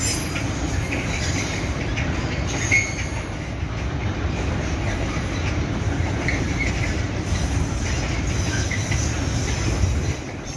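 A train running on the rails, with a steady heavy rumble of wheels and short high squeals from the wheels now and then. The sound drops off a little near the end.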